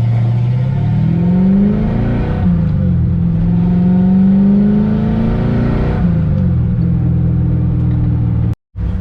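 Fox-body Ford Mustang engine accelerating: its pitch rises, drops at a gear change about two seconds in, climbs again through a longer pull, then eases off about six seconds in and settles to a steady cruise. The sound cuts out for a moment near the end.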